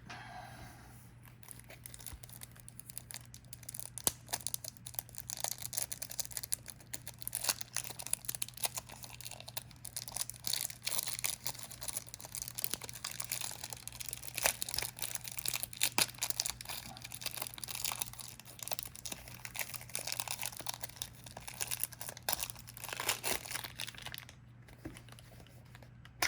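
Plastic shrink-wrap being torn and crinkled off a trading card game starter deck, with crackling and rustling throughout.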